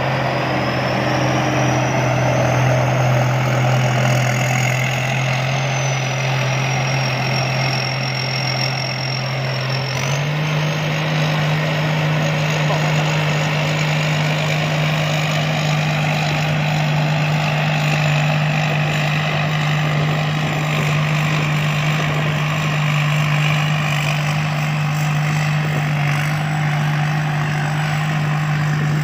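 Combine harvester engine running steadily. Its pitch steps up a little about ten seconds in, with a thin high whine above it.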